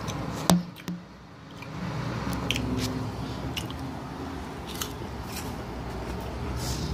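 A sharp knock about half a second in, then crunchy chewing of Flamin' Hot Cheetos close to the microphone, scattered crackles over a steady low rumble.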